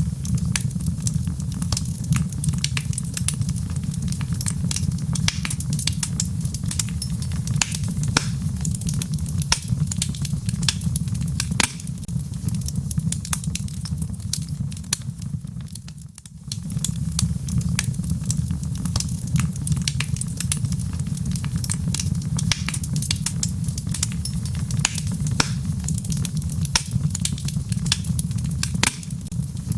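Log fire burning in a fireplace: a steady low rumble of flames with frequent sharp crackles and pops from the burning wood. The rumble briefly drops out about halfway through, then carries on.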